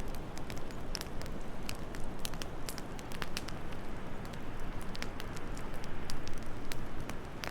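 Wood fire crackling in a fireplace: frequent, irregular sharp pops and snaps over a steady low rush.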